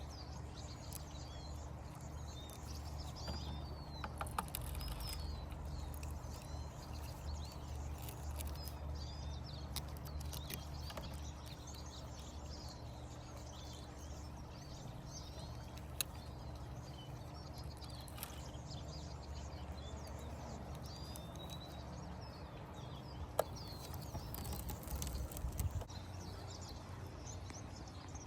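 Birds chirping over a steady low hum, with a few sharp clicks.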